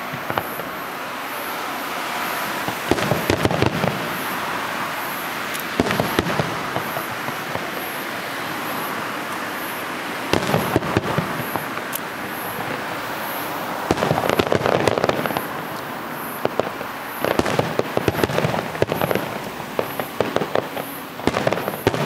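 Fireworks display: volleys of aerial shells going off in clusters of sharp bangs and crackling every few seconds, with a steady wash of sound between the volleys.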